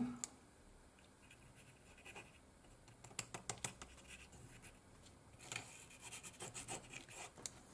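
Faint crackling and scratching of thin crinkle foil being handled and fitted around a small craft piece, in short irregular clicks that come in a cluster about three seconds in and again through the second half.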